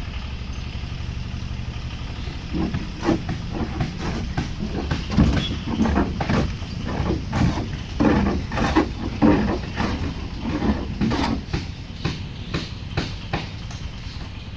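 A steady low drone like a running motor. From a couple of seconds in, a series of irregular knocks sounds over it, roughly one or two a second.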